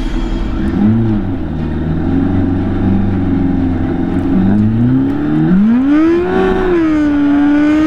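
Drag-racing motorcycle engine held on the revs at the start line, blipped briefly about a second in, then launching at full throttle: the pitch climbs steeply about five and a half seconds in and stays high as the bike accelerates away.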